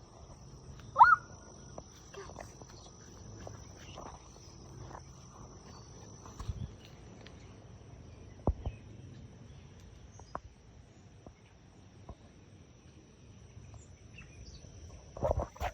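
Outdoor insect drone, a steady high thin tone, with a sharp short rising chirp about a second in and a few scattered soft clicks and rustles.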